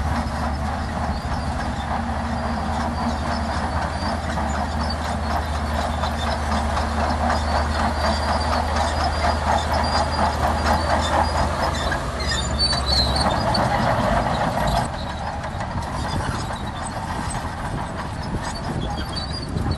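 Heavy earthmoving machinery at work: a diesel engine running under load beneath a steady, rapid metallic clatter, the hum and clatter easing off about fifteen seconds in.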